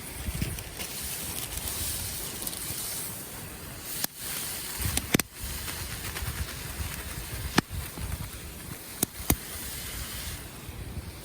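Wind buffeting the microphone with a low, gusty rumble, broken by about half a dozen sharp cracks or clicks scattered through it.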